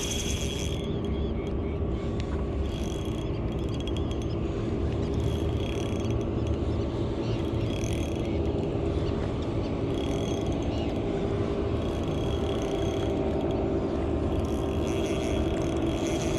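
A boat engine runs steadily under short, repeated bursts of a spinning reel being cranked every two to three seconds as a fish is fought on light tackle.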